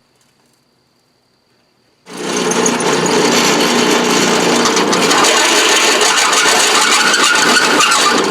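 Near silence for about two seconds, then a power drill starts boring through steel square tubing and runs steadily and loudly.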